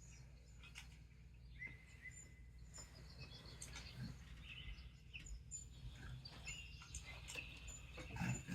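Faint small-bird chirps and short calls, scattered and growing busier toward the end, over a steady low hum.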